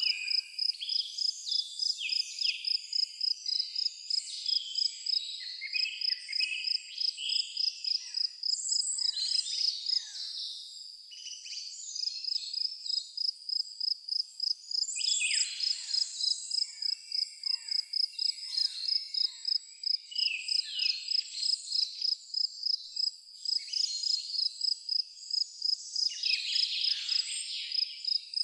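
Crickets chirping in a steady, high-pitched pulsing rhythm that pauses for a couple of seconds about ten seconds in, with several songbirds singing over it in quick falling whistles and trills.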